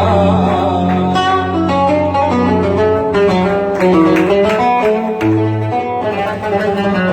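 Oud playing a Sanaani-style melody of quick plucked notes, each picked note ringing briefly, over held low tones.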